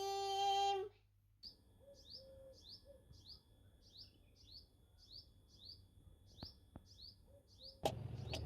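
A recited voice's last held note ends about a second in. Then a small bird chirps over and over, short high downward-sweeping chirps about twice a second. A louder rushing noise starts suddenly near the end.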